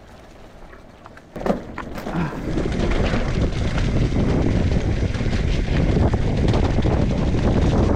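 Commencal Clash mountain bike picking up speed on a dirt trail. After a quiet second or so there is a sharp knock, then loud tyre noise with the bike rattling, full of small clicks and knocks, builds up and holds steady.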